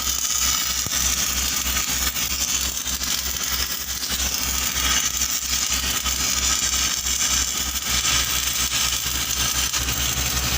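Steady crackling hiss of an arc welding pipe, with an engine running underneath in an even low pulse.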